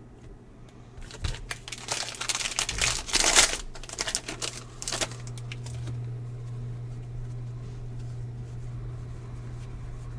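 Foil card-pack wrapper being torn open and crinkled for a few seconds from about a second in, loudest near the middle. Then a steady low hum.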